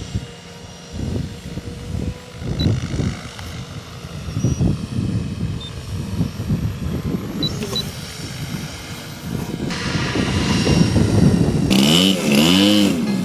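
A small engine runs under irregular low rumbling, likely a radio-controlled model airplane engine. Towards the end it grows louder and its pitch swings up and down several times.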